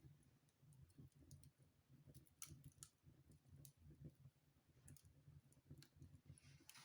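Faint wood fire crackling in a fireplace: sharp snaps and pops at irregular intervals over a low rumble, with a brief hiss near the end.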